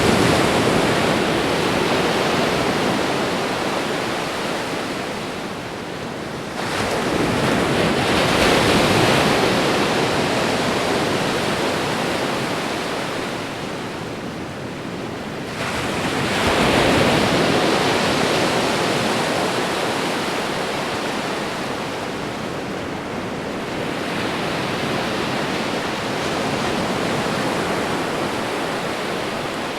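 Ocean surf: waves breaking and washing in as a steady hiss, each wave swelling and then fading, roughly every eight or nine seconds.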